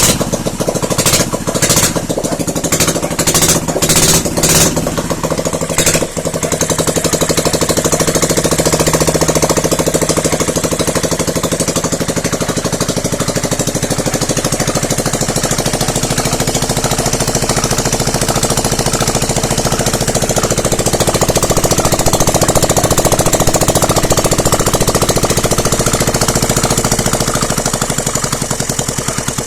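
A Dnepr-16 motorcycle's Ural flat-twin engine running. It comes in uneven bursts for the first six seconds or so, then runs steadily.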